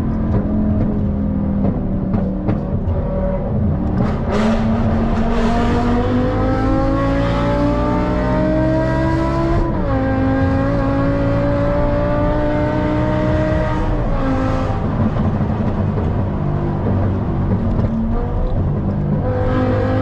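A BMW M5's engine, heard from inside the cabin, pulling hard in fourth gear. The revs climb steadily, drop back sharply about ten seconds in, climb again, ease off around fourteen seconds, and begin rising once more near the end.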